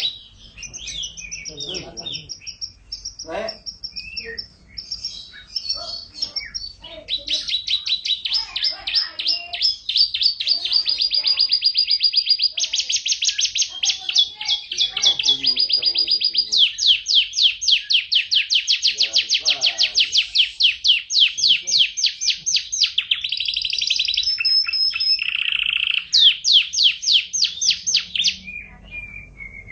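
Domestic canary singing nonstop: long, fast trills of rapidly repeated notes, one roll following another with only brief breaks and shifts in pitch between phrases.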